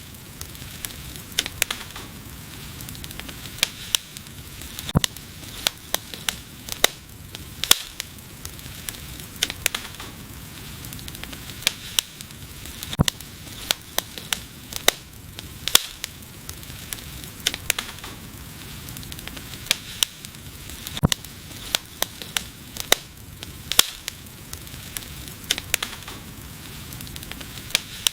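Wood fire crackling, with sharp, irregular pops and snaps over a low, steady rush of burning flames.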